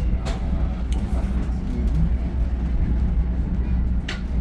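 Steady low rumble of a Reading & Northern passenger train car rolling along the track, with a few sharp clicks near the start and again about four seconds in.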